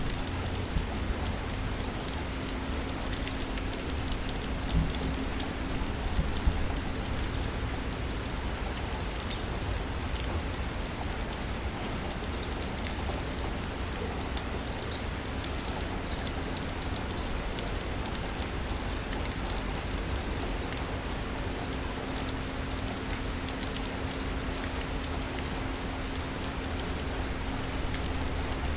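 Steady rain falling in a city: an even hiss with a few louder drop hits in the first seven seconds, over a faint steady hum.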